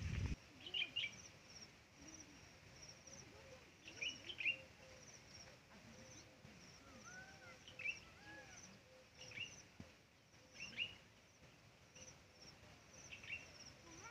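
Birds chirping in short calls every second or two over a faint, steady string of high-pitched chirps. There is a brief low thump right at the start.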